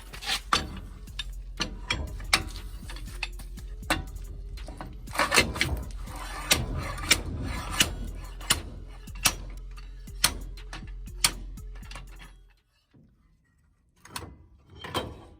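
Sharp metallic clicks and knocks of hand tools turning bolts to push a seized axle shaft out of a mini truck's rear axle housing, over a steady low hum. The hum and clicking cut off abruptly about twelve and a half seconds in.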